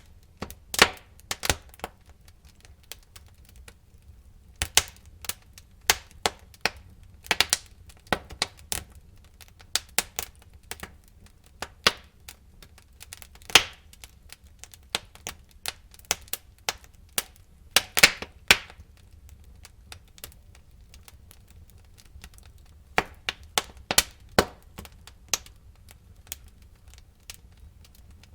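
Wood fire crackling in a fireplace: irregular sharp pops and snaps of burning logs, some much louder than others, over a faint low rumble of the flames. The pops come in clusters, with a quieter stretch past the middle.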